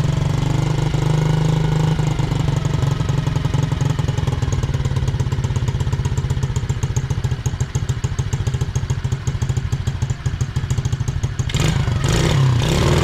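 SSR 110cc pit bike's single-cylinder four-stroke engine running at idle, a little unevenly, then revving up near the end. Freshly started after a carb cleaning, it barely holds an idle and bogs a little when revved.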